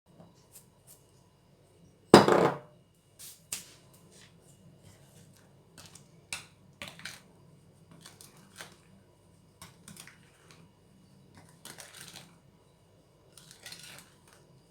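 Half a cup of flour tipped into a mixing bowl with a brief rush about two seconds in, followed by scattered clinks and scrapes of a utensil against the bowl as it is mixed in.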